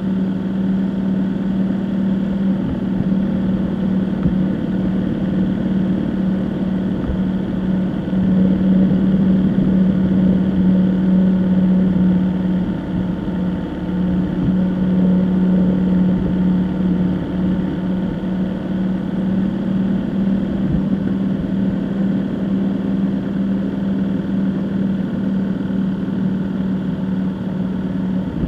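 Vehicle engine running at a steady drone with road noise while driving, growing somewhat louder for a few seconds about a third of the way in.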